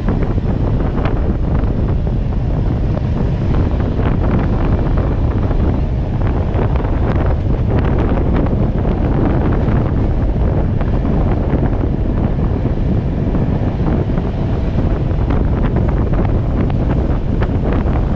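Wind buffeting the microphone at the open window of a moving train, over the steady rumble of the train running on the track. Irregular clicks and clacks come through it as the wheels pass over rail joints and points.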